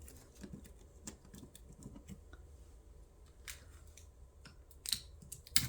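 Scotch tape being pulled, torn into small pieces and pressed on by hand: scattered light clicks and crackles, with a couple of sharper snaps near the end.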